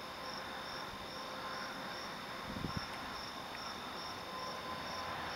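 Crickets chirping in a steady rhythm, about two to three chirps a second.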